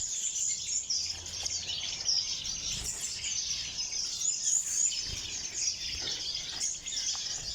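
Many small aviary finches chirping and twittering at once, a dense high-pitched chatter that never lets up.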